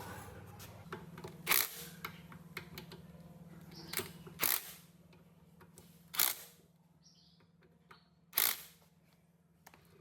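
Four short, sharp knocks or clacks of work on the machine, about two seconds apart, with smaller ticks between them, over a faint steady low hum.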